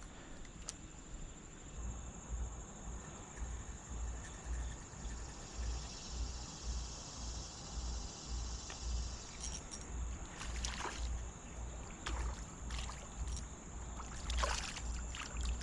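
Quiet creek-side ambience: water moving, soft low rhythmic thumps about two or three times a second, and a steady thin high whine. A few short clicks come in the second half.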